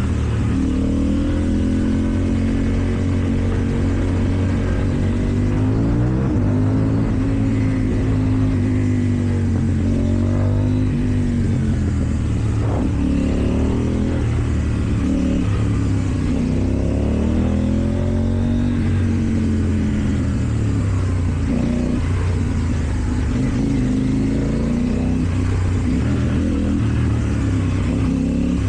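KTM Duke 790's parallel-twin engine through an Akrapovič exhaust, accelerating and easing off again and again, so that its pitch rises and falls repeatedly.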